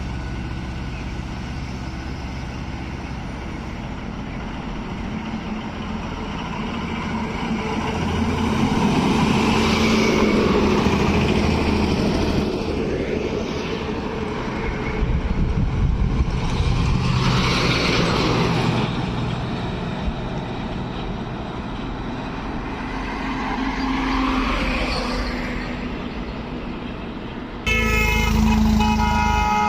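Heavy trucks passing on a highway, engine and tyre noise swelling and fading as each one goes by. Near the end a vehicle horn sounds in repeated blasts.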